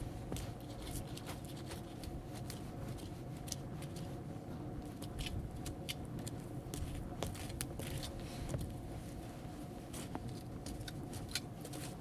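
An old linden stump burning, with irregular sharp crackles and pops over a steady low rumble.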